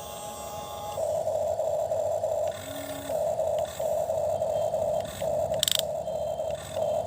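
Toy excavator's small electric motor whirring in repeated short bursts as it stops and starts, with a sharp click about two thirds of the way through.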